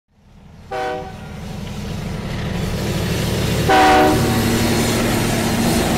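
Union Pacific diesel locomotive's horn sounding two short blasts about three seconds apart, the second louder. Under them is the steady rumble of the train, which grows louder as it comes on.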